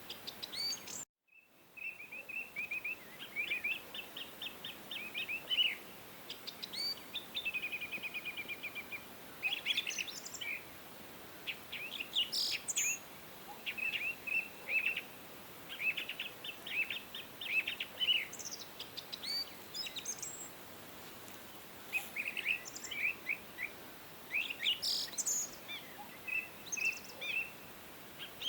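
Songbirds chirping and singing in quick runs of short, high notes over a faint steady hiss, with several birds overlapping. The sound cuts to silence briefly about a second in, then resumes.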